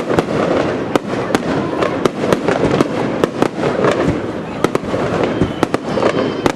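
Fireworks display at close range: a rapid, irregular series of sharp bangs and cracks, several a second, over a continuous din.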